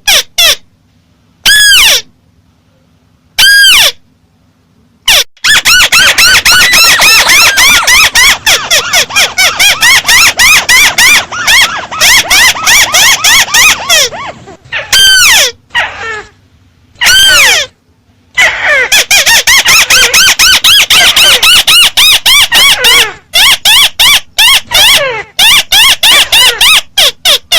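Amplified recording of mắt xéo bird calls: rapid runs of short, high, up-and-down squealing notes, loud and dense, broken several times by abrupt dead-silent gaps where the recording cuts.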